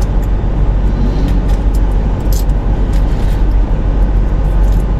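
Steady low rumble inside a stationary car's cabin, the engine idling and the air conditioning running, with a few light clicks of coins being handled and counted.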